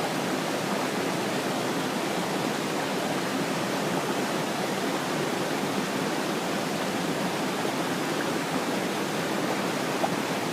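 Steady roar of a large waterfall, the water loud and unbroken.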